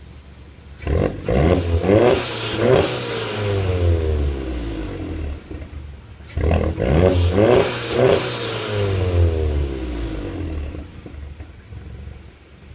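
VW Golf MK7 engine revved in two sets of quick throttle blips, each followed by a hiss from the blow-off valve as the revs fall back to idle.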